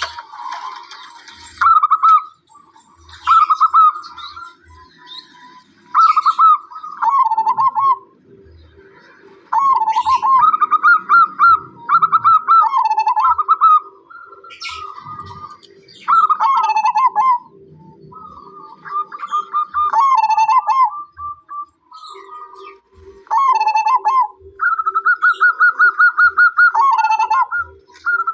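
Zebra dove (perkutut) cooing over and over, each phrase a run of quick rippling coo notes, with a fresh phrase every second or two. Other small birds chirp higher up in between.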